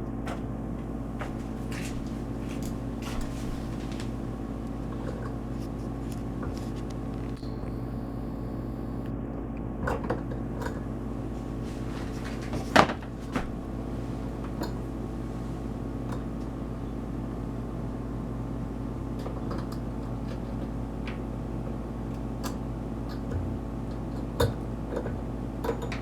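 A steady hum with several even tones, with a few scattered clicks and knocks; the loudest knock is about halfway through.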